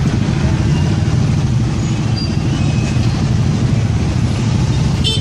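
Steady low rumble of a moving vehicle, engine and road noise with wind on the microphone, with a brief high chirp near the end.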